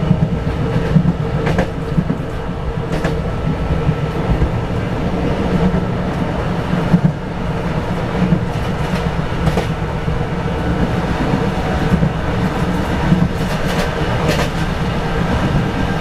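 KRL electric commuter train running along the track, heard from inside the train: a steady low rumble with a few sharp clicks of the wheels over the rails and faint steady tones above it.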